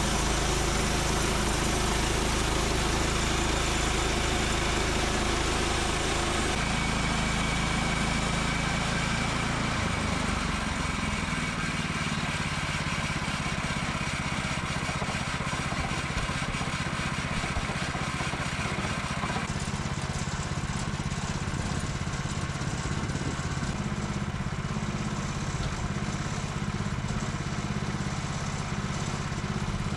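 An engine running steadily, its note shifting about six seconds in and again around twenty seconds in.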